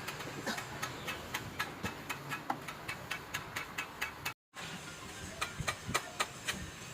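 Even, rapid mechanical clicking, about four to five clicks a second, cut off by a brief total dropout a little past four seconds in before it resumes.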